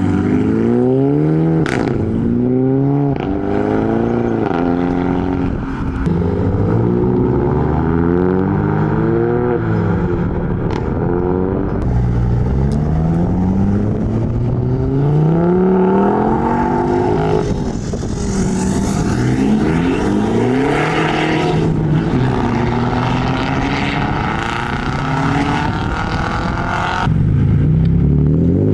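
Modified car engines revving and accelerating away one after another, the pitch climbing repeatedly as they rev up and shift. A couple of sharp cracks cut through early on and about ten seconds in.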